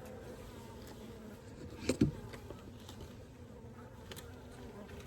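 Honeybees buzzing in flight, a steady hum, with two sharp knocks close together about two seconds in.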